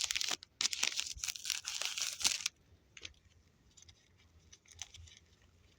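Crinkling and tearing of a tea packet's wrapper being handled and opened, dense for about two and a half seconds, then only a few faint scattered clicks.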